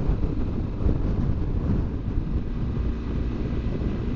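BMW R1200GS Adventure boxer-twin motorcycle engine running steadily while riding, with wind rushing over the microphone.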